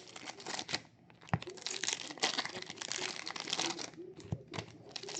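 Wrappers on sports card packs crinkling and tearing as they are opened and handled, with many quick crackles, pausing briefly about a second in and again near four seconds.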